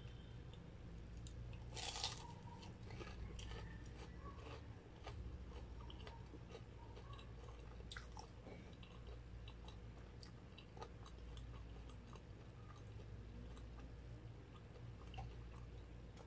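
Close-up chewing of a crisp breaded corn dog: a louder crunchy bite about two seconds in, then many small crunches and mouth clicks, over a faint steady low hum.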